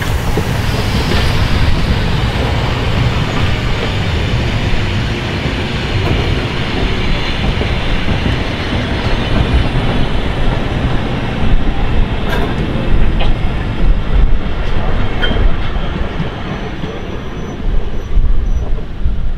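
Steam-hauled train of passenger carriages behind class 64 tank locomotive 64 518 rolling past close by: a steady loud rumble of wheels on rails, with clicks as the wheels cross rail joints about two thirds of the way in.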